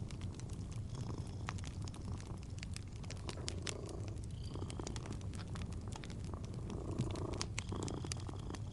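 A cat purring steadily, with the small pops and crackles of a wood fire throughout.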